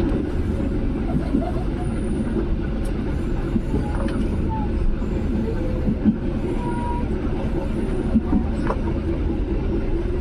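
Passenger train running along the line: a steady rumble of wheels on the rails, with a few sharp clicks and knocks scattered through it.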